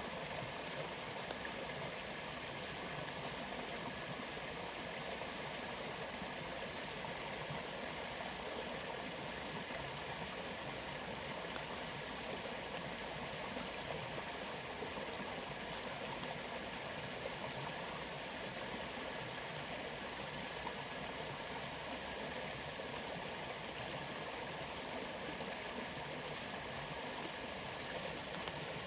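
Steady rush of falling and flowing water from a waterfall, an even unbroken noise.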